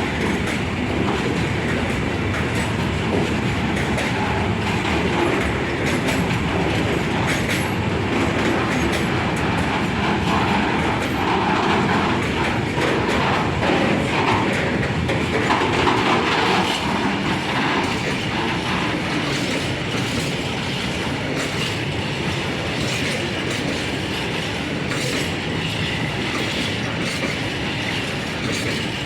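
Container freight train rolling slowly past, its wagon wheels clicking over rail joints amid a steady rumble of running gear.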